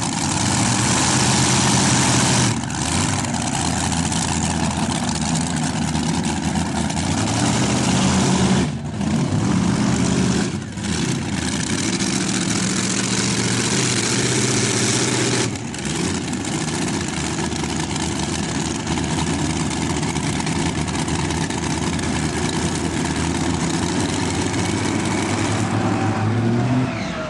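Multi-engine tractor-pulling tractor with five V8 engines running hard, with brief dips in the engine note about 2.5, 9, 11 and 15.5 seconds in. The pitch rises near the end, then the sound drops off.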